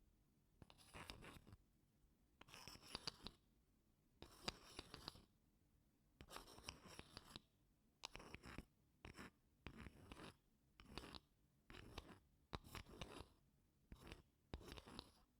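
A wooden spoon scraping across wooden blocks in about a dozen short, gentle strokes, each separated by a brief pause.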